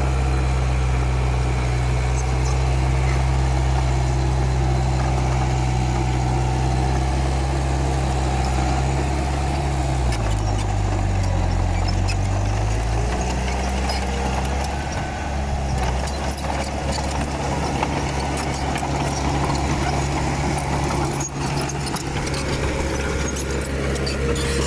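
Komatsu D31P bulldozer's diesel engine running steadily. Its pitch dips briefly about ten seconds in and comes back up. In the second half, irregular clatter and rattle join the engine.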